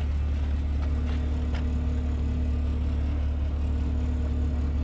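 A large engine idling steadily, a low even drone with a faint hum, and a couple of faint clicks about a second in.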